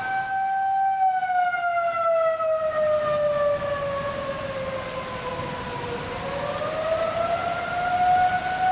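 Outdoor warning siren sounding a severe-weather alert, its pitch sliding slowly down over a few seconds and climbing back up near the end. Steady rain is heard with it.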